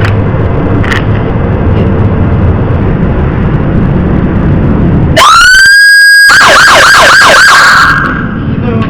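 Low rumble of the car and surroundings, then about five seconds in the American police car's siren sounds loud: a tone that climbs quickly and holds for about a second, switches to a fast warble of about five cycles a second, then dies away.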